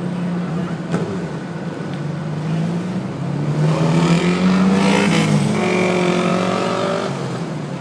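Motor vehicles driving past on a street, one engine speeding up with a rising pitch about three and a half seconds in and passing loudest around the middle, then easing off.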